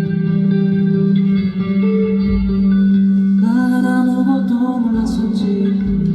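Live rock band music with sustained electric guitar chords over a steady low drone, with a brief vocal line about halfway through.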